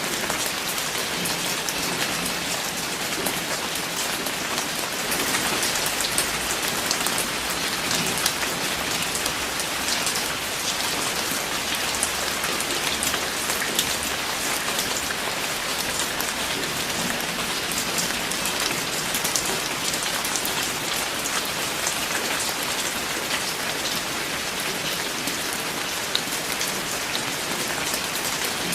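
Steady rain falling on a surface, an even hiss dotted with many individual drop ticks.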